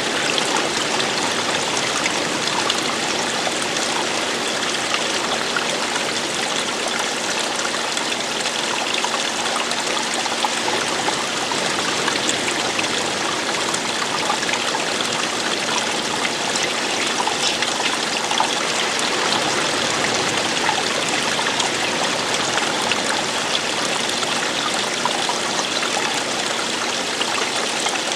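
Water running steadily over rocks like a stream or small cascade, an even rushing and splashing that doesn't change.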